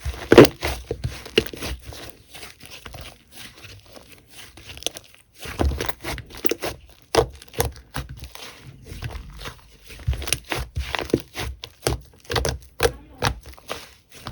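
Slime being squished and stretched by hand, giving irregular sticky clicks and pops.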